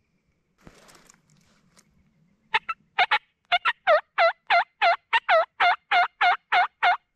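Turkey call worked as a run of hen yelps to draw in a gobbler: two short notes, then about a dozen evenly spaced yelps, roughly three a second.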